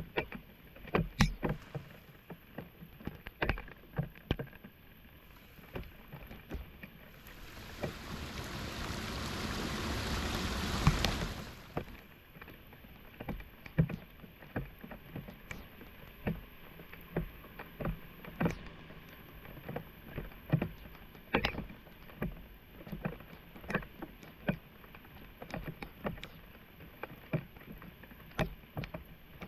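Shallow floodwater splashing and sloshing, with many short splashes and knocks as a clogged street drain is cleared by hand. About a third of the way in, a rushing water sound builds for a few seconds, then stops abruptly.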